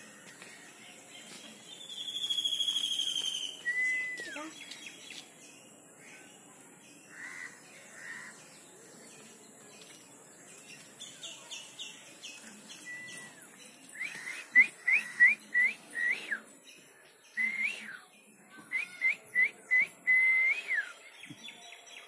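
Bird calls: a long whistled note about two seconds in, a couple of single whistled notes that drop sharply in pitch, then two quick runs of short, sharp whistled chirps, about three a second, in the second half.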